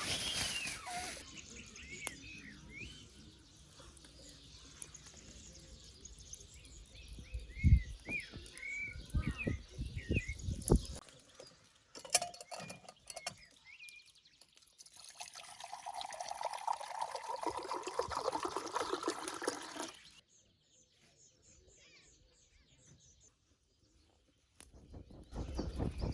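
Birds chirp for the first dozen seconds, with a few dull knocks. Then liquid pours steadily for about five seconds and stops.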